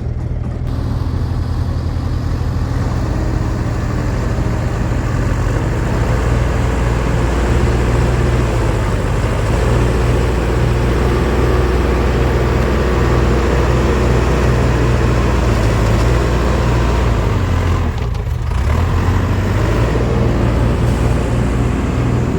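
Diesel engine of a 1999 Fermec TLK760 backhoe loader working under load while loading fill dirt, rising and easing with the work and briefly dropping off a few seconds before the end.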